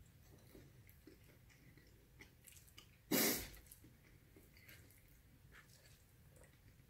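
Quiet chewing of a mouthful of pumpkin and tofu curry, with faint soft mouth smacks and clicks. About three seconds in comes a single brief loud whoosh that fades out within half a second.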